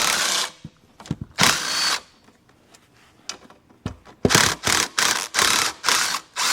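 Power drill-driver run in short bursts, backing out the bolts that hold the seat suspension's shock absorber and spring. There is one burst at the start and another about a second and a half in, then five in quick succession from about four seconds in.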